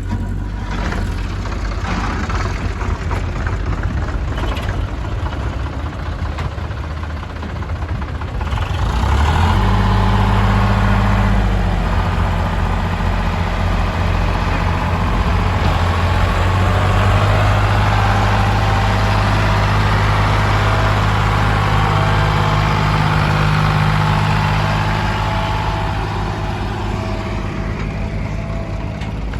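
Heavy diesel engine running steadily, then revving up about nine seconds in and working hard at higher speed for some fifteen seconds before easing back down.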